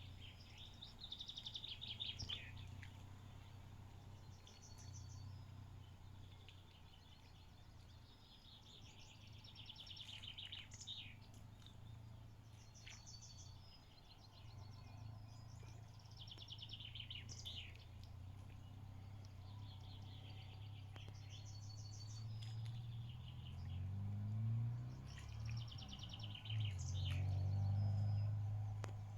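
Songbirds singing short, repeated phrases every few seconds over a steady low rumble that swells and becomes louder in the last few seconds.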